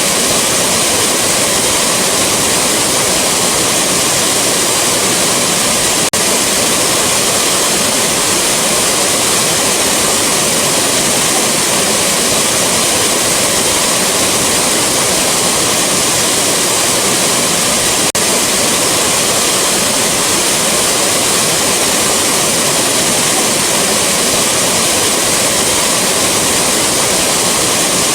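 A waterfall rushing with a steady, dense hiss of falling water. A faint tick about six seconds in and again twelve seconds later marks where the recording loops.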